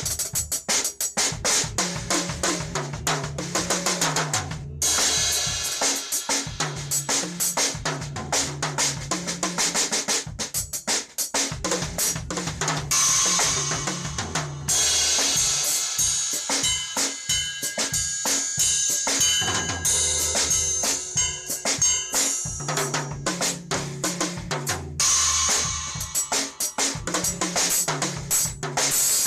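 A drum kit being played: fast, continuous strokes on bass drum and snare, with cymbal crashes washing over several stretches.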